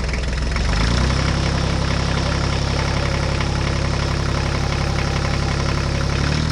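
Truck engine running steadily. About a second in it picks up to a higher, slightly louder pitch and then holds there as the truck drives along.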